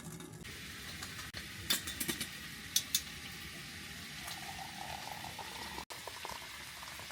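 Coffee bubbling at a boil, a steady liquid bubbling with a few light clicks about two to three seconds in.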